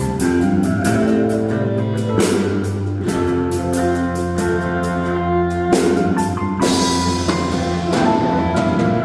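Live band playing an instrumental passage without singing: drum kit with cymbal crashes about two seconds in and again near six seconds, under held chords with bass and electric guitar.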